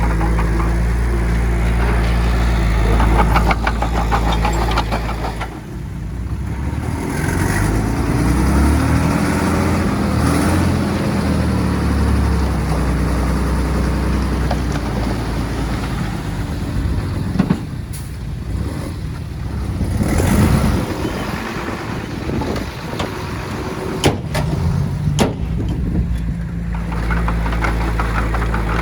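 Heavy diesel earthmoving machinery working: a bulldozer's engine running steadily with a rhythmic knock. Through the middle, engine tones rise and fall as a machine revs under load, with a few sharp metallic clanks later on.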